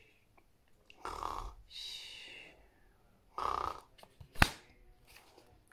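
A woman making pretend snoring sounds: a snorted in-breath and then a longer breathy out-breath with a whistle, twice, then one more snorted in-breath about three and a half seconds in. A single sharp click follows about a second later.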